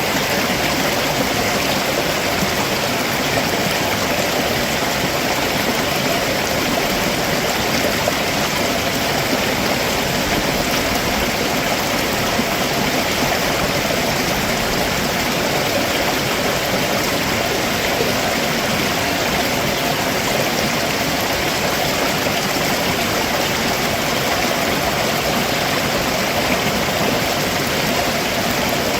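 A rocky stream rushing steadily over stones below a waterfall, in an even, unbroken flow.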